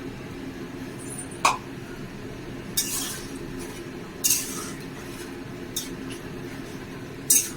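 A spoon scraping and knocking against a cooking pan as chili chicken gravy is stirred: about five separate short clatters at uneven intervals over a steady low hum.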